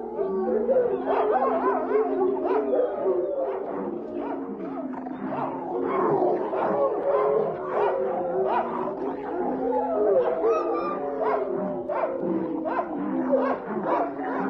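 Many animal calls overlapping densely, short cries and longer bending calls in quick succession over a few steady held tones.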